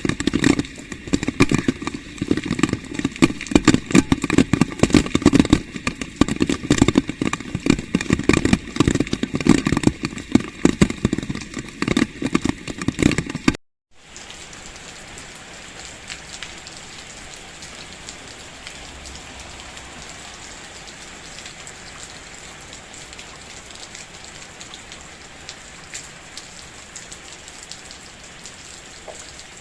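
Rain: for the first half, a heavy, dense patter of drops striking a hard surface. This cuts off abruptly about 14 s in and gives way to a quieter, steady rain hiss with scattered drops.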